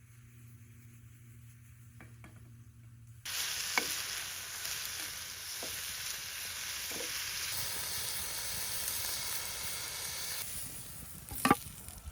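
Steak and vegetables sizzling on a grill grate over a fire. A faint low hum comes first; about three seconds in, loud, even sizzling starts suddenly and eases a little near the end. A sharp click or knock comes just before the end.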